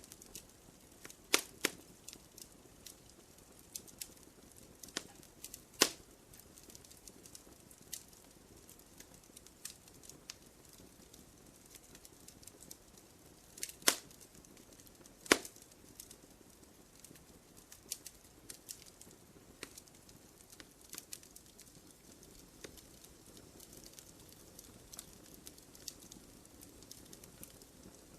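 Wood fire crackling in a fireplace: scattered sharp pops and snaps over a faint low hiss, with a few louder pops about a second and a half in, around six seconds in, and twice near the middle.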